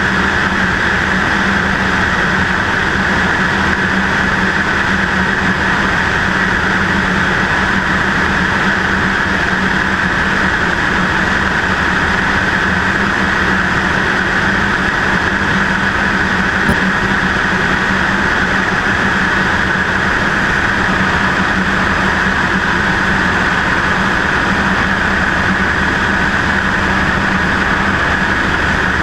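Cessna 152's four-cylinder Lycoming piston engine and propeller running at a steady, unchanging drone, heard from a camera mounted on the left wing.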